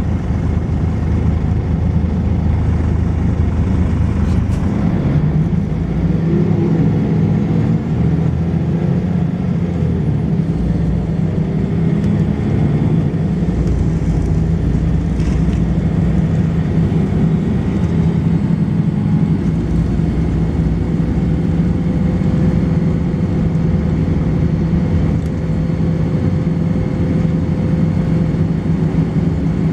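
Volvo B10BLE bus's diesel engine and ZF gearbox running under way. The engine note shifts up about four to five seconds in, climbs briefly, then settles into a steady drone.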